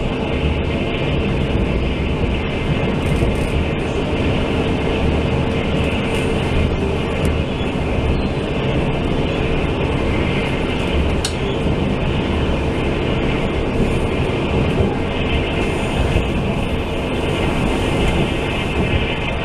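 Steady running noise heard inside a Taiwan Railway Fu-Hsing express passenger coach at speed: the wheels rolling on the rails and the carriage rumbling, with a steady hum under it and one short tick about eleven seconds in.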